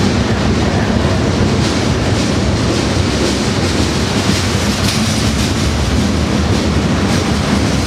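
Slow, heavy freight train passing close by inside a rail tunnel, its wheels and cars making a loud, steady rumble with no break.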